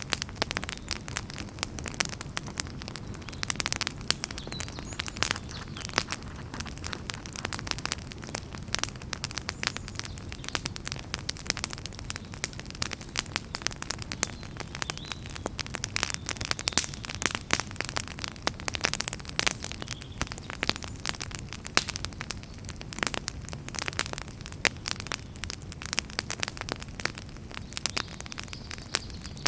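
Campfire burning: wood crackling and popping in many irregular sharp clicks over a steady low rumble of flames.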